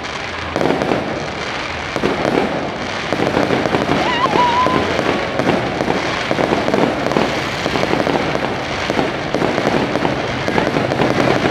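Fireworks going off in a continuous crackle of many rapid bangs and pops.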